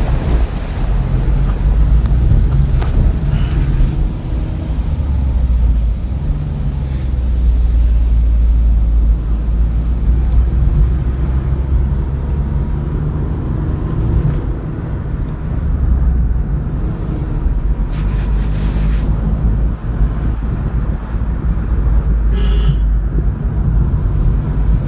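Steady low rumble of road and wind noise from a moving vehicle, heavy in the bass and rising and falling in strength.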